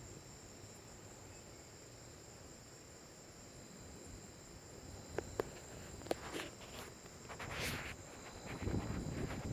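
Crickets chirring in a steady, high-pitched chorus. A few sharp clicks and a brief rustling hiss come in the second half, with a low rumbling swell near the end.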